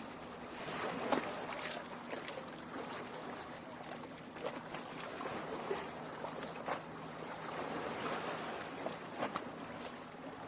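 Small lake waves lapping at the shore: a steady wash of water with scattered light splashes and drips.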